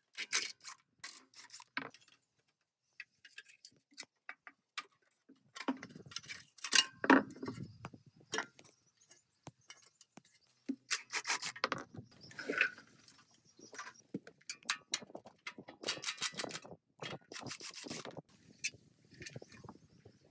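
Hand work on rusty metal parts: irregular scraping and rubbing, with sharp clicks and knocks of tools and parts being handled, separated by short pauses.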